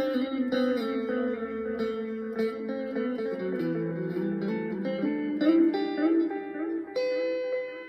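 Chapman ML1 electric guitar played through a Donner Yellow Fall delay pedal into a Blackstar HT1-R amp with its reverb turned up full. Single notes are picked in a line that falls in pitch, then climbs again, each one trailed by echo repeats. A chord is struck near the end.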